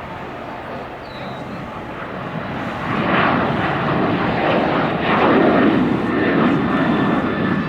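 Jet airliner engines growing louder about three seconds in as the plane passes close by: a noisy rush with a faint high whine.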